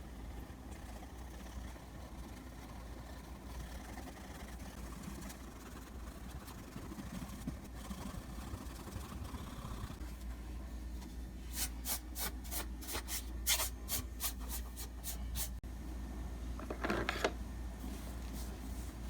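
Drawing strokes on a drawing surface: faint rubbing and scratching, with a run of about a dozen quick, sharp strokes a little past the middle and a longer scratchy rub near the end, over a steady low hum.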